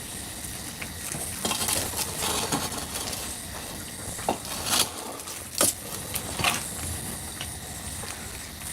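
Dishes and utensils clinking and clattering, with a few sharp knocks between about four and six and a half seconds in, over a steady hiss.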